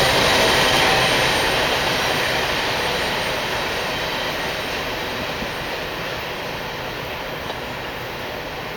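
Grain train's covered hopper cars rolling past on the rails, a steady rushing rumble of wheels that fades gradually as the train moves away.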